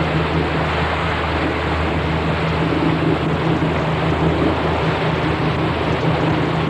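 Boat engine running steadily with a low hum, under a constant rush of wind and water noise on the microphone.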